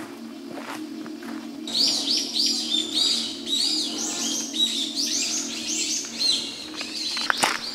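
A songbird singing a long run of quick, arched whistled notes in forest, starting about two seconds in. Footsteps crunch on gravel near the end.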